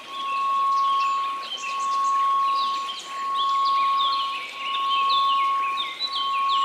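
A steady 1098 Hz pure tone over a faint white-noise hiss, swelling and fading about every second and a half, with a scatter of high tinkling wind-chime notes above it.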